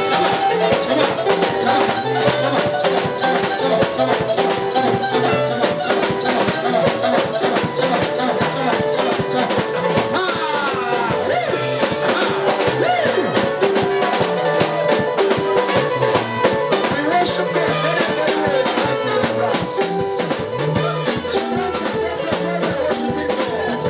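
Gospel praise music from a live church band, with a drum kit keeping a steady beat under held keyboard or guitar notes.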